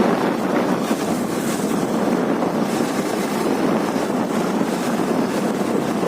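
Steady wind rush buffeting the microphone of a Karizma R motorcycle riding along, with the bike's running mixed in beneath it.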